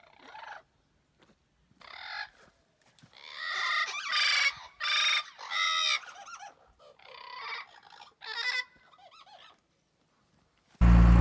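Domestic fowl calling: a series of about eight loud, separate calls of half a second or so, with short gaps between them. Near the end a loud vehicle engine cuts in suddenly.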